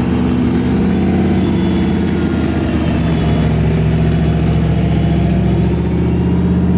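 Single-turbo 5.3-litre V8 in a Chevelle drag car idling loudly and steadily, with a fast pulsing beat in the exhaust.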